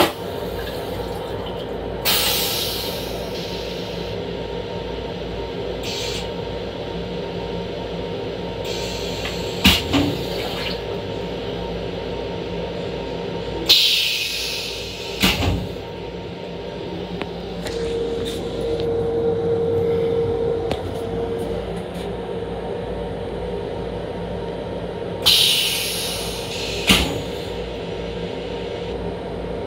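Running noise of a Long Island Rail Road M7 electric railcar heard inside its small restroom: a steady hum, broken three times by a short hiss of about a second and by a few sharp knocks.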